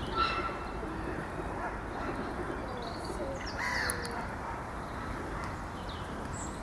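Outdoor park ambience with a steady background rumble and scattered bird calls, a louder call coming a little under four seconds in.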